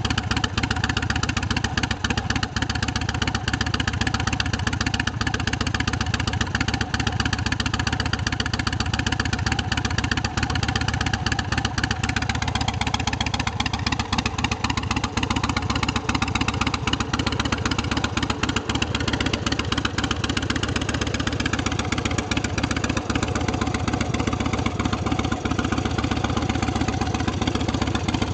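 A 117-cubic-inch carbureted S&S V-twin motorcycle engine running steadily through a Vance & Hines exhaust, its firing pulses even throughout.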